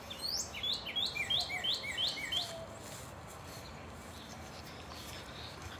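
A bird singing a quick run of about nine repeated notes, each sliding down in pitch, about four a second, that stops about two and a half seconds in.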